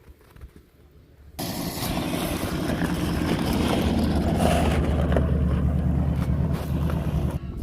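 A car engine running steadily with a deep, loud exhaust note. It starts abruptly about a second and a half in.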